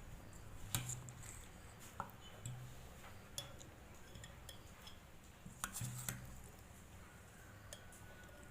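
Spoon clinking against a glass jar as chicken pickle is spooned in: a handful of sharp clinks spaced a second or two apart, two close together about six seconds in.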